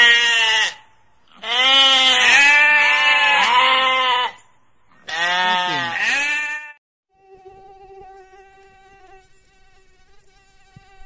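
Sheep bleating: three long, wavering bleats, the longest about three seconds. After the bleats stop, a faint steady hum.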